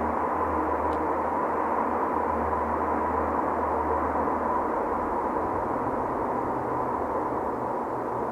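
Toyota Supra engine running inside an echoing tunnel, a steady drone with a haze of reverberant noise. About five seconds in, its low hum steps up in pitch.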